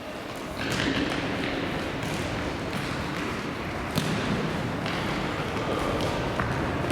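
Futsal game in a sports hall: a steady echoing din of play, with thuds of the ball being kicked and bouncing, the sharpest about four seconds in.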